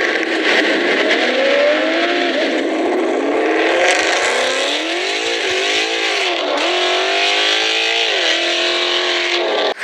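Modified Ford Mustang GT's V8 engine being revved repeatedly, its pitch climbing and dropping in several swells.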